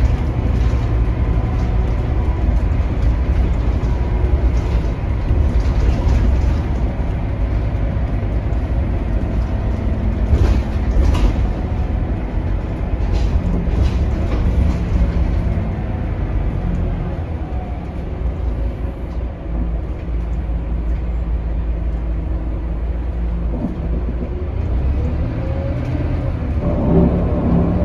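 Interior ride sound of a Scania K280UB city bus under way: the Scania DC9 five-cylinder diesel running steadily, with road rumble and a few short rattles from the body.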